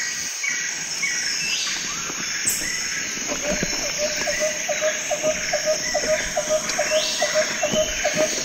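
Mountain bike rolling along a dirt trail: a steady hiss of tyres and moving air. Short high chirps repeat in the first second, and from a little before halfway a lower, evenly spaced chirp sets in at about three a second.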